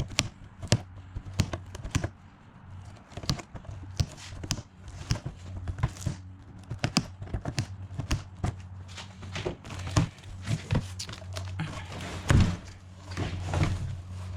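Cardboard shipping box being torn open and handled: irregular knocks, taps and scraping of cardboard, with a low steady hum underneath.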